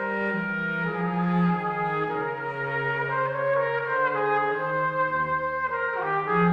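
Slow instrumental music: sustained chords held by several voices at once, changing in steps about every second over a moving bass line.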